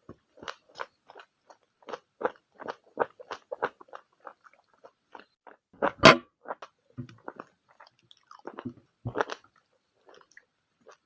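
Close-miked chewing of a meal of pork, egg and Maggi noodles: a quick run of wet, smacking mouth clicks, with a louder bite about six seconds in and another near nine seconds.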